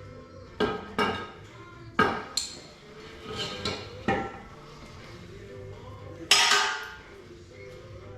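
Hand tools and metal parts clanking and knocking during teardown of a motorcycle frame: about five sharp metallic strikes in the first four seconds, then a louder, longer clatter about six seconds in.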